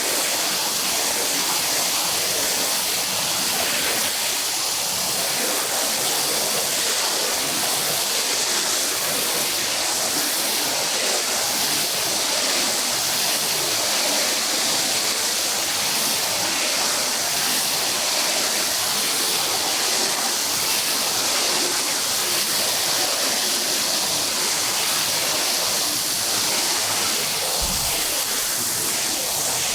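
Steady hiss of spraying water, even and unbroken, as in rinsing a carpet with a hose or pressure washer.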